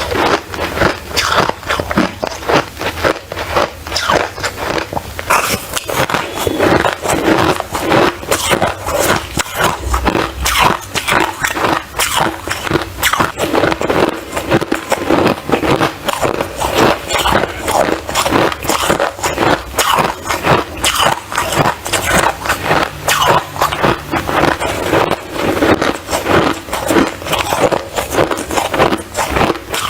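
Ice being bitten and chewed close to the microphone: loud, irregular crunches, several a second, without a break.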